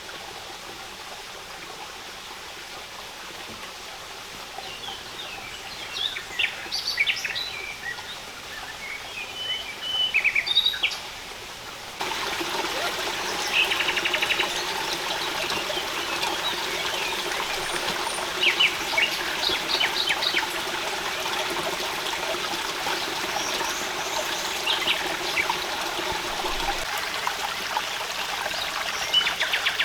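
Steady trickling water outdoors with small birds chirping in short bursts on and off. The water noise steps up louder about twelve seconds in.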